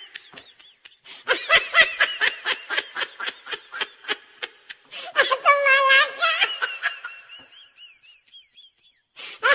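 A laughter sound effect: quick high-pitched snickering pulses, about five a second, swelling into one long shrill laugh about five seconds in, then trailing off in thin squeaky wheezes.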